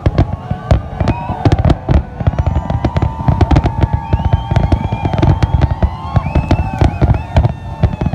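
Aerial fireworks display: a dense barrage of sharp bangs in quick succession, several a second, with whistling tones that hold and glide over them.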